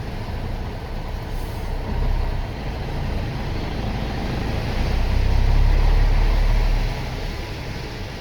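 Truck running on the road, heard from inside the cab: a steady low engine rumble with tyre and road noise, swelling louder for about two seconds past the middle.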